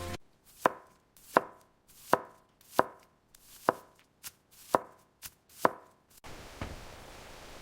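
Kitchen knife chopping vegetables on a cutting board: about nine sharp, ringing strokes, a little over one a second. About six seconds in the chopping stops and a steady hiss takes over.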